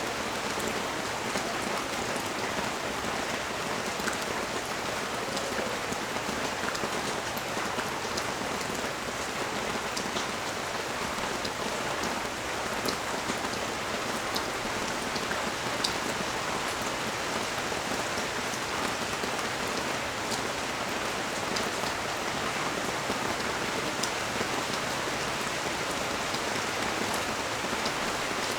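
Steady rain falling on the street, a constant hiss with many sharp drops ticking on nearby surfaces.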